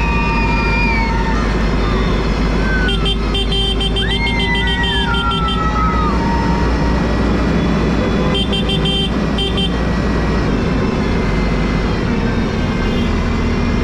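Tractor engines running in a convoy, with horns tooting in rapid repeated blasts twice, about three seconds in and again about eight seconds in.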